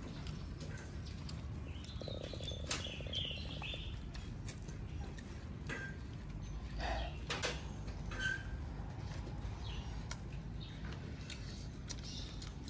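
Close eating sounds of people chewing and gnawing spiced chicken bones with their hands: scattered wet clicks and smacks over a steady low hum, with a few short high chirps.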